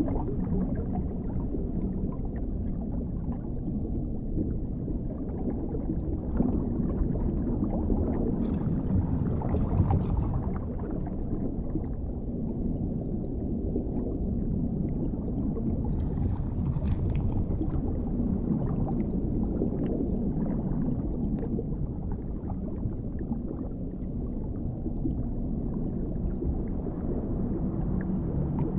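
Dark underwater ambience: a steady, muffled low rumble with faint bubbling and crackling specks that come and go.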